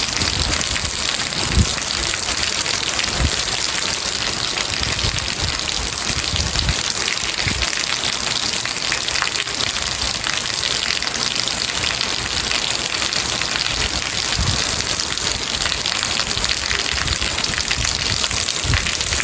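Steady heavy rain, a dense even hiss, with a few soft low thuds scattered through it.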